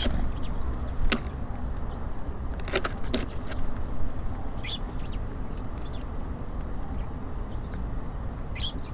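Small birds at a bird feeder: a few sharp knocks and taps on the feeder in the first few seconds and short high chirps about halfway and near the end, over a steady low rumble.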